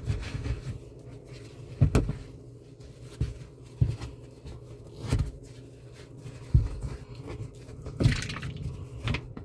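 Scattered, irregular knocks and clunks of hands and objects in a dishwasher's base, with faint water sounds, as the last standing water is soaked up.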